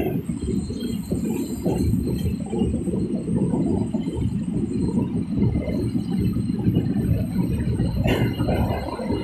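Moving local passenger train, a loud low rumble with a brief clatter about eight seconds in.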